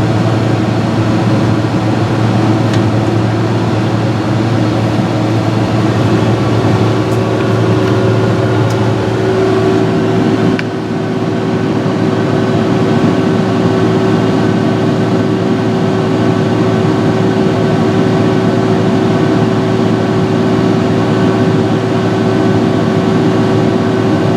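John Deere 6068 inline six-cylinder diesel engine of a Fabtek 153 harvester running steadily, with a constant machine hum and whine. About ten and a half seconds in the sound dips briefly and shifts, the low hum easing while a steady higher tone carries on.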